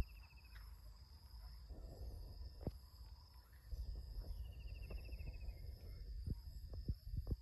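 Insects chirring steadily in a rice field, with a short descending trill heard twice. A low rumble and a few soft knocks sit underneath.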